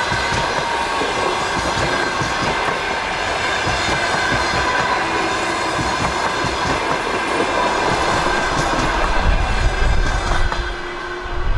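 Passenger train coaches rolling past on the track, wheels clattering over rail joints, with a steady high ringing tone over the running noise. A heavy low rumble swells as the last coach goes by, and the sound falls away near the end.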